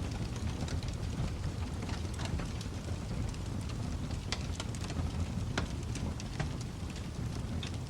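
Wood fire crackling in a fireplace: a steady low rumble of the flames with irregular sharp pops and snaps, a few louder ones standing out.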